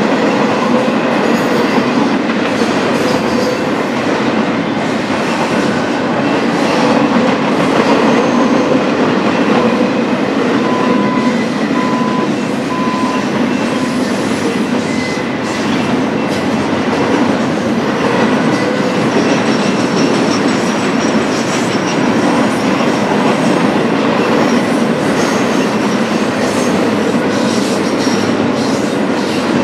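BNSF intermodal freight train's cars rolling past, a steady rumble of steel wheels on the rails.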